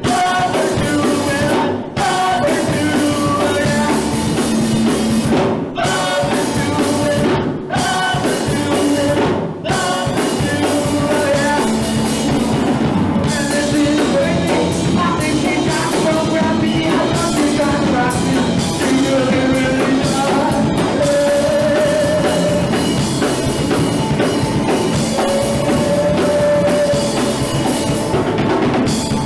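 A punk rock band playing live and loud, with drum kit and a singing voice. There are a few brief stops in the first ten seconds, after which it plays on without a break.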